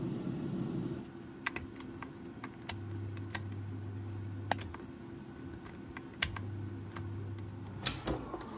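A series of irregular light clicks and taps, about two a second, over a low steady hum, with a short clatter near the end.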